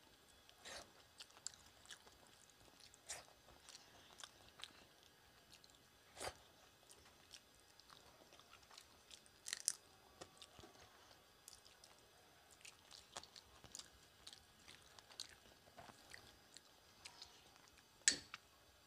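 Quiet, close-miked chewing of rice and curry eaten by hand, with irregular wet mouth clicks and smacks. One sharper, louder click comes near the end.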